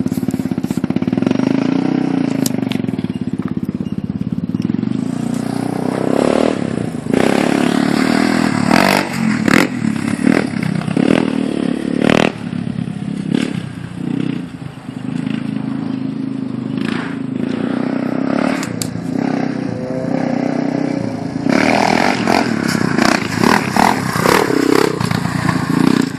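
Yamaha Raptor 350 ATV's single-cylinder four-stroke engine running, its steady note broken by repeated short surges of revving and sharp clattering knocks.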